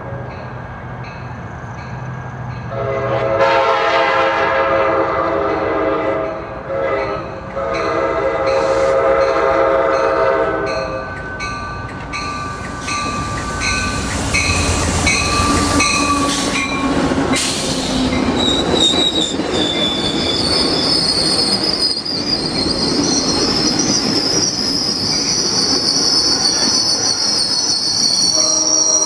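Sounder commuter train locomotive sounding two long horn blasts on approach, with faint regular dinging under them. The train then passes close by with a loud rush of wheels and cars and a high steady wheel squeal, and the horn starts again at the very end.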